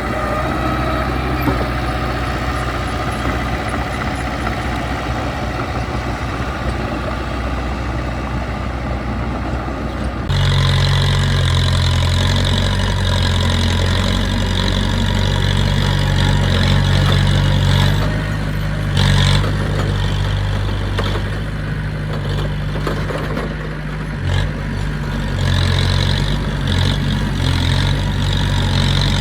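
Diesel engine of heavy earthmoving equipment running steadily. About ten seconds in, the sound changes abruptly to a louder, deeper engine note that carries on to the end.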